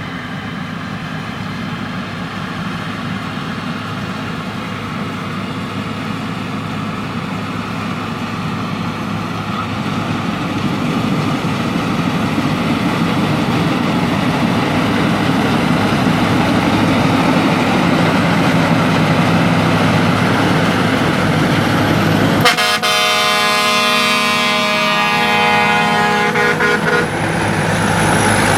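Rice combine harvester's engine running, growing louder over the first half. About two-thirds of the way through, a horn sounds for about four seconds over it.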